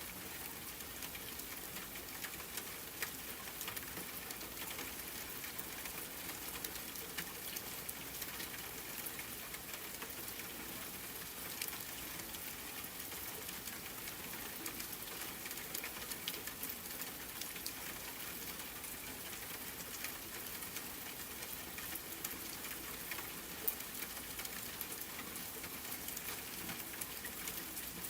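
Soft, steady rain: a dense, even hiss of falling drops with individual drops ticking through it.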